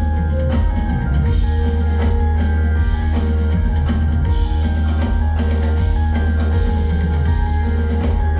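A live band playing an instrumental passage through a concert PA: a drum kit and a heavy, steady bass under held instrument notes, with no singing.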